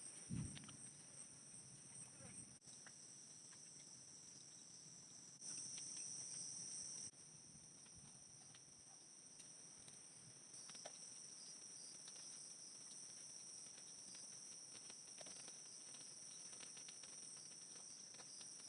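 Chorus of crickets or similar night insects trilling steadily at two high pitches, faint, with a dull thump just after the start and a few light clicks.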